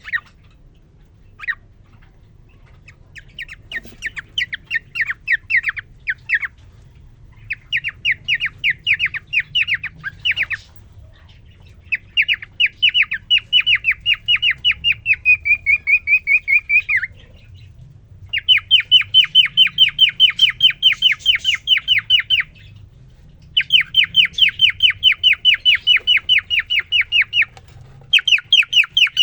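Male cockatiel singing to a newly introduced female: two single chirps, then phrase after phrase of fast, evenly repeated chirping notes, each phrase lasting a few seconds with short breaks between, louder in the later phrases.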